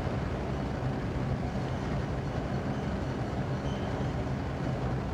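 Steady background noise with a constant low hum and no distinct events.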